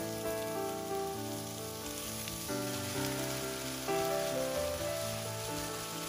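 Sliced button mushrooms and onion sizzling in oil as they are stir-fried in a nonstick wok, under background music.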